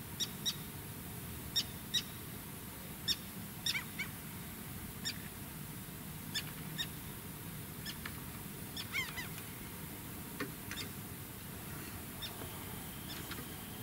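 Birds calling: a dozen or so short high chirps scattered irregularly, with one longer wavering call about nine seconds in, over a quiet steady background.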